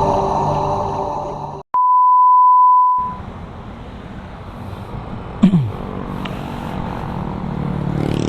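The end of intro music, then a steady high test beep lasting about a second and a half, followed by the low, steady running of a motor scooter engine with street noise and a brief falling tone about five and a half seconds in.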